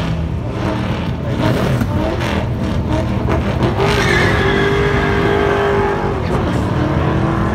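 Car engine revving hard during a tyre-smoking burnout, in surges at first, then held high with a pitch that slowly falls about two thirds of the way in.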